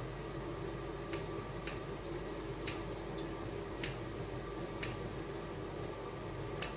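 Six light, sharp clicks at irregular intervals of about a second, from a small tool or fingers working on raw shrimp while they are being deveined, over a steady low hum.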